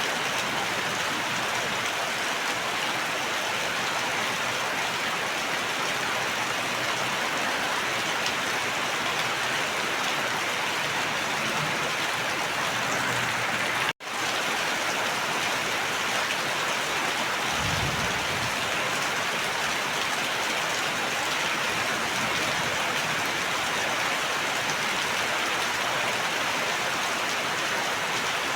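Steady, even rain hiss. About halfway through the sound cuts out for an instant and fades back in, as at a loop join, and a few seconds later there is a short low rumble.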